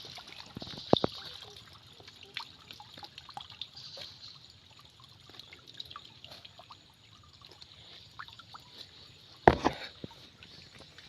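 Water trickling and dripping, with scattered small drips and one loud knock or splash about nine and a half seconds in.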